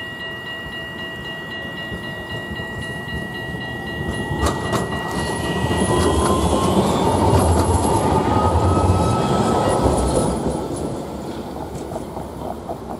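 A train passing: a rumble that builds to its loudest around the middle and then fades, with a steady two-note tone through the first half.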